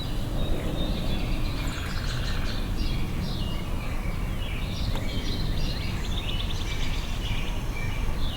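Songbirds chirping: many short high calls and a couple of rapid trills, one about two seconds in, over a steady low background hum.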